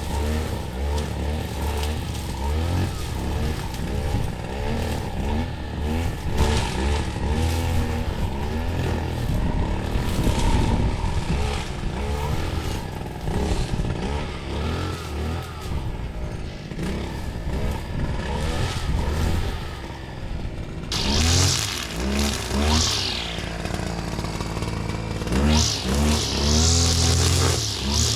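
Small petrol engine running and revving up and down, its speed changing every second or so; the sound changes about three-quarters of the way through, turning brighter and higher-pitched.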